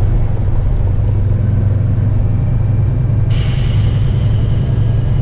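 Steady low drone of a Kenworth heavy-haul truck's engine and road noise, heard inside the cab while driving. About three seconds in, a brighter hiss suddenly joins it.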